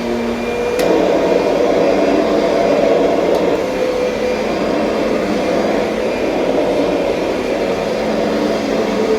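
Kirby Sentria upright vacuum cleaner running steadily, with a sharp click about a second in, after which it gets slightly louder.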